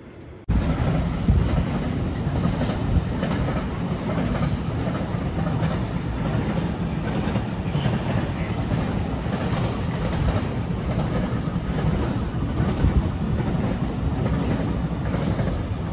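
Intermodal freight train passing close at speed: a steady rumble of wagons with wheels clattering over the rail joints. It starts abruptly about half a second in.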